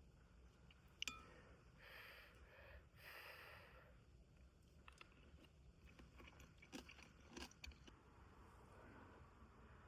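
Faint scattered clicks and short rustles, like small objects being handled close by, with one sharp click about a second in.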